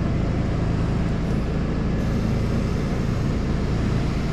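A large engine running steadily at a constant speed, with a low, even hum.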